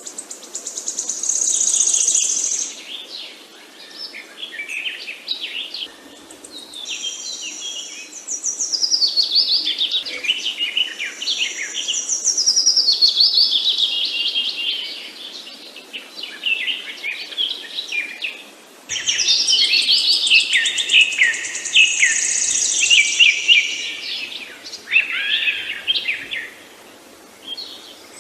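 Several songbirds singing and chirping at once in overlapping phrases: rapid trills, high buzzy notes and quick falling runs of notes, swelling and fading in bursts.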